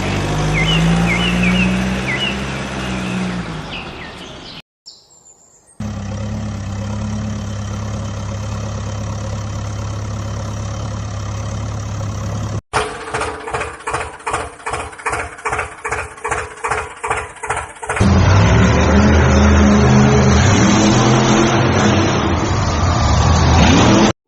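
Tractor engine sounds in several separate cut-together clips. First a start-up, then a steady idle, then an even chugging pulse at about two beats a second, then a louder, rougher run with a wavering pitch near the end.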